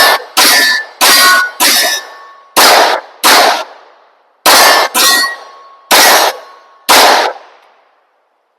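A 9mm P80-frame Glock 19 pistol firing about ten shots in steady succession, a little over one a second, each shot followed by a ringing tail. It cycles through the string without a stovepipe jam, running with its muzzle brake removed and a 15-pound recoil spring fitted.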